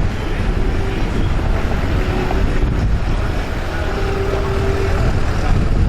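Tractor engines running steadily, with wind buffeting the microphone.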